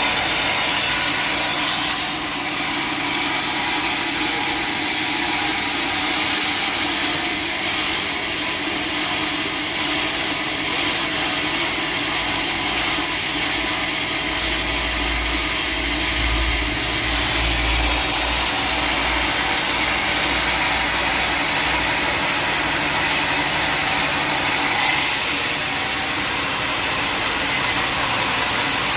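Bandsaw sawmill running steadily and sawing through a mahogany log, with a deeper rumble joining in for a few seconds around the middle.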